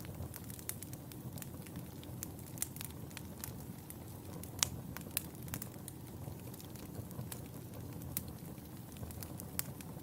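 Wood fire burning in a fireplace: a steady low rumble of the flames with frequent irregular sharp crackles and pops, the loudest pop about halfway through.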